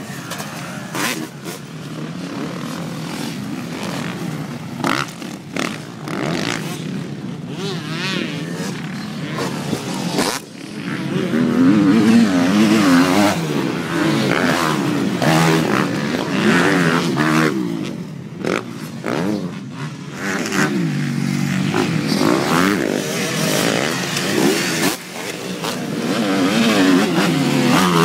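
Several motocross dirt bikes racing, their engines revving up and down again and again as they ride the track. The engines grow louder about a third of the way in and again near the end.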